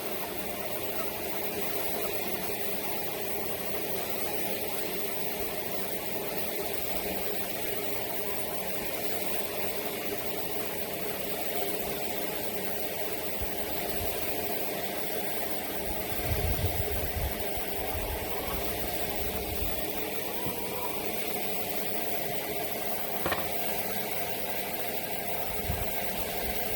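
A machine motor running steadily, with a few low thumps about two-thirds of the way in and a sharp click near the end.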